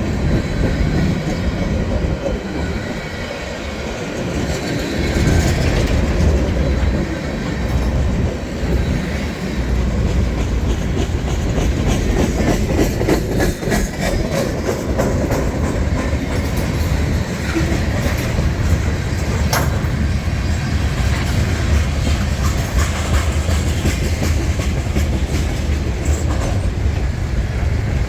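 Freight cars rolling past, wheels clicking over the rail joints above a steady low rumble. A single sharp metallic click about two-thirds of the way through.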